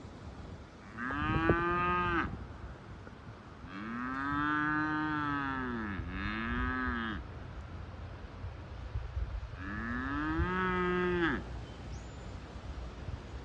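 Cow mooing four times: one call about a second in, a long call followed straight away by a shorter one in the middle, and another call near the end. Each moo rises and then falls in pitch.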